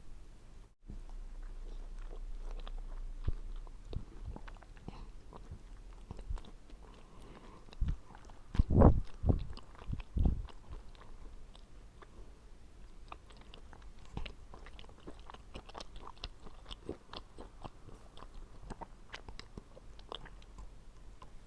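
Close-miked eating of a chilled mandarin orange: juicy biting and chewing with many small wet clicks, and a few louder thuds about eight to ten seconds in.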